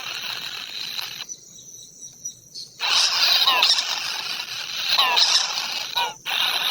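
Short squealing bird calls repeated over a steady high-pitched drone. The drone cuts out abruptly for a second or so a little after the start, and again briefly near the end.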